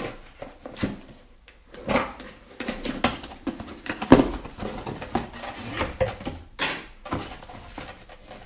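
A cardboard parcel being opened by hand: tape ripping and packaging rustling and crackling in irregular bursts, with one sharp rip about six and a half seconds in.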